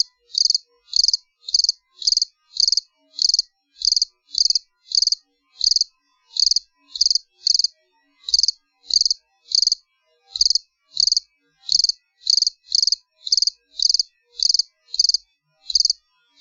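A single cricket chirping: short, high-pitched chirps about two a second, evenly spaced with silence between them and a few slightly longer pauses.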